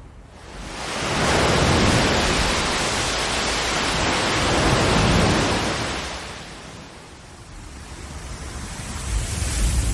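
Ocean waves on a shore: one wave surges in about a second in, stays loud for several seconds and washes back out by about seven seconds, then the next wave builds near the end.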